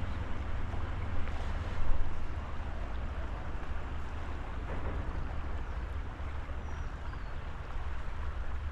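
Steady rush of flowing river water, with low wind rumble on the microphone.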